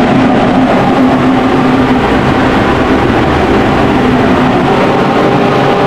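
A motor-driven machine running steadily and loudly, with a constant hum.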